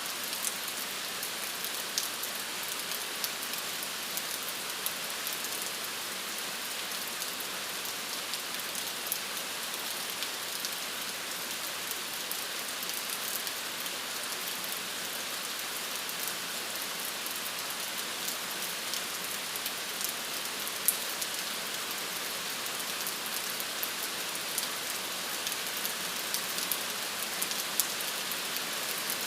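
Steady rain falling and pattering on a surface, an even hiss with many small sharp drop ticks scattered through it.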